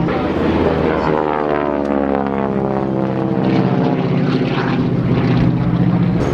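Propeller aircraft of the Harvard display team, North American Harvard trainers with Pratt & Whitney R-1340 Wasp radial engines, flying past. Their engine note drops in pitch over the first couple of seconds as they pass, then holds as a steady, many-toned drone that grows a little louder later on.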